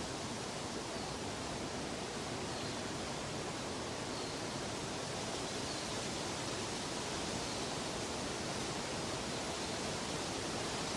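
Steady, even rushing noise spread from deep to high pitches, with no rhythm, melody or voice.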